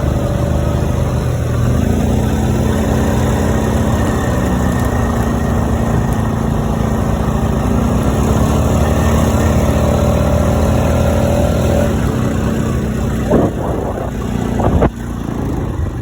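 Quad bike engine running steadily as it rides, with a held pitch that climbs slightly for a few seconds in the middle. A couple of sharp knocks come near the end.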